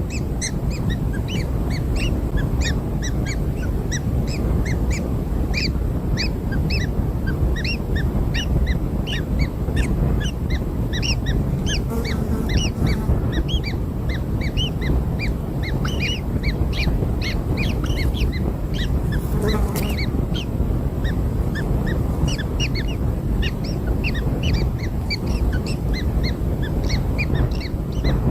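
Newly hatched kingfisher chicks begging for food with a rapid stream of short, high-pitched calls over a steady low rumble.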